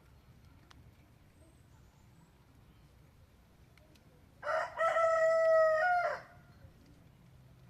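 A bird's call: one loud, drawn-out call of about two seconds, starting about four and a half seconds in, on a steady pitch with several overtones.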